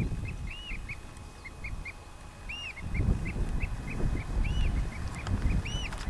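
A bird calling repeatedly: short high notes about three times a second, with a longer arched call every second or two. Wind rumbles on the microphone in gusts.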